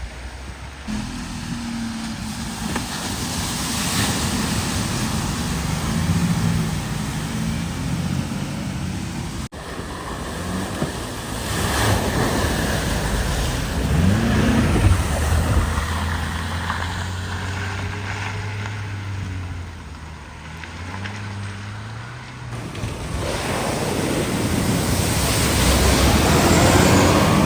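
Vehicles driving through deep floodwater, their engines running under the rush and splash of water pushed aside, across several cuts.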